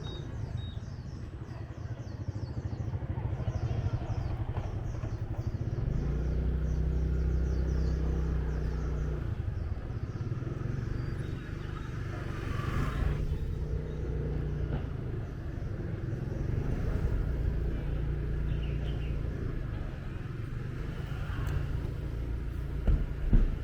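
Motorbike engine running while riding through city streets; the note steps up about six seconds in and eases off a few seconds later. Another vehicle sweeps past about halfway through, and a couple of sharp knocks come near the end.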